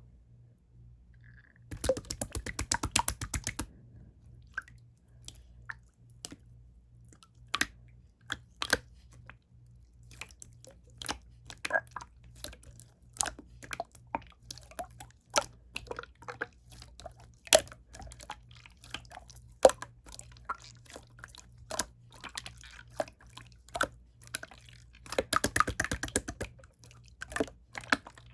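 Clear slime being pressed, poked and stretched by hand, giving irregular sharp clicks and pops, with two runs of rapid crackling, one about two seconds in and one near the end.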